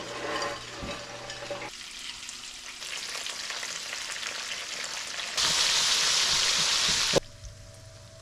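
Battered yellow perch sizzling as it fries in hot oil. The sizzling gets much louder about five seconds in, then drops off suddenly near the end.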